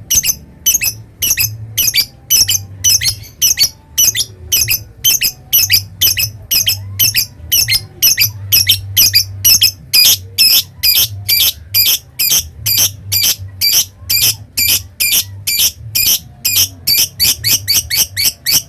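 Lovebird calling in a long run of sharp, high-pitched chirps, about two to three a second, quickening near the end and then stopping abruptly, over a faint steady low hum.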